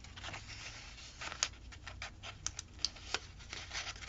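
Thin paper stickers being handled and pressed down onto a planner page: irregular light taps and clicks of fingers on paper, with faint paper rustling.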